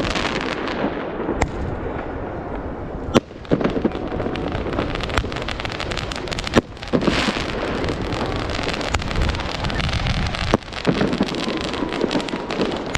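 Fireworks going off: a dense, continuous crackling with four sharp, loud bangs spaced through it.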